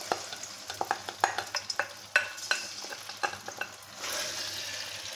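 Marinated chicken strips sizzling in hot oil in a nonstick wok, with a spatula scraping and tapping against the pan in quick strokes as they are stirred. The stirring stops a little before four seconds in, and the sizzling carries on steadily.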